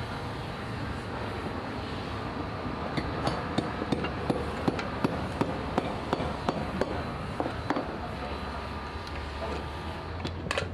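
A hammer tapping repeatedly, about a dozen sharp knocks at roughly three a second, starting about three seconds in and stopping near the eight-second mark, over a steady low hum.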